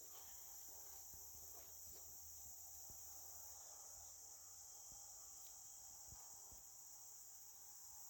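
Faint, steady high-pitched insect chirring, with a few soft clicks.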